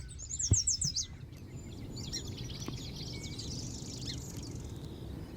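Small marsh birds singing: a quick run of about six high, sharp notes, then a longer, jumbled twittering song, over a low wind rumble. A single soft thump comes about half a second in.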